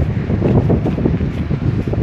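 Wind buffeting the microphone: a loud, low rumbling rush that gusts up and down unevenly.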